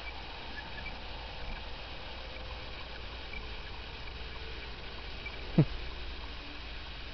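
Distant backyard fireworks: one short, sharp pop a little over halfway through that falls quickly in pitch, over a steady faint night-time hiss.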